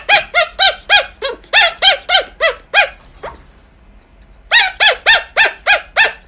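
An animal giving a rapid series of short, pitched calls, about four a second, in two runs separated by a pause of about a second and a half.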